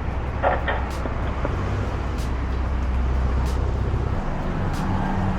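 Car engine and road noise heard from inside the cabin as the car creeps forward at low speed. The engine's hum changes pitch about four seconds in. Faint ticks come at an even pace, about one every second and a quarter.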